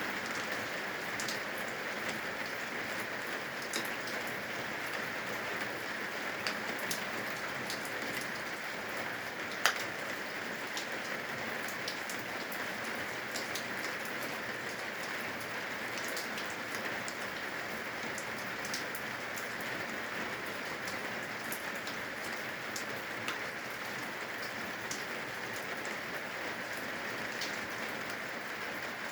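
Steady rain falling on the eaves, a constant hiss with scattered sharper drips, one louder drop about ten seconds in.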